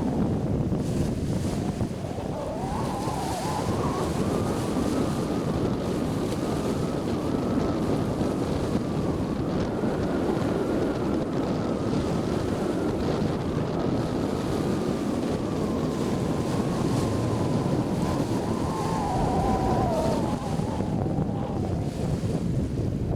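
Strong wind blowing hard across the microphone, with a continuous rumbling buffet, and waves washing in on the lake shore. A faint thin whine climbs early on, holds, and falls away near the end.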